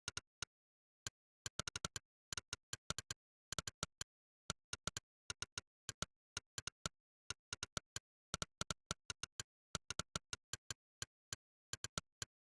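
Monkeytype's synthetic 'click' typing sound, one short click per keystroke, coming in quick irregular runs with brief pauses, the uneven rhythm of someone typing.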